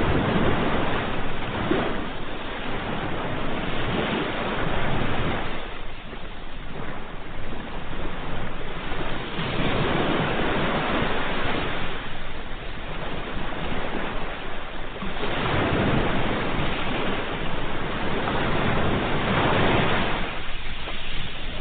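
Ocean waves breaking and washing on a shore, a steady surf roar that swells and eases every few seconds.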